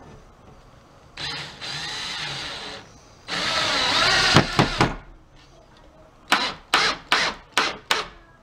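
Power drill running in two longer spells, its pitch rising and falling with the trigger, then five quick trigger bursts in a row. It is driving screws through new support boards into a pool table frame, and the short bursts sink each screw just below the board's surface.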